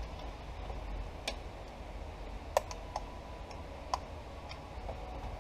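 A few sharp clicks and taps of parts being handled and worked loose on a car's steering column: about four clear ones spread irregularly, with fainter ticks between, over a low steady hum.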